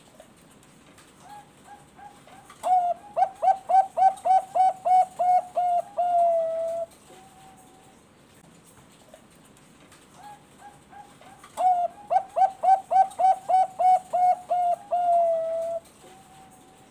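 Zebra dove (Bangkok-type perkutut) singing two song phrases. Each opens with a few soft coos, then runs into about a dozen loud, quick staccato coos, roughly three a second, and ends on a longer drawn-out note.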